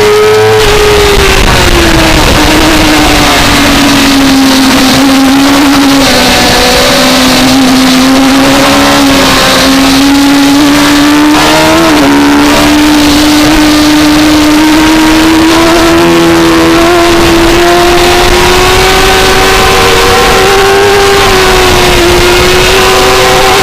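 2004 Suzuki GSX-R600 inline-four racing engine heard onboard at high revs. Its pitch drops over the first few seconds, then climbs slowly and steadily, under a loud rush of wind noise.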